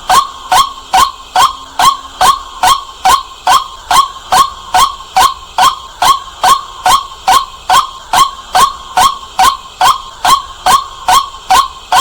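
White-breasted waterhen calling: a loud, clear "kwak" repeated evenly about two and a half times a second, each note dipping slightly in pitch.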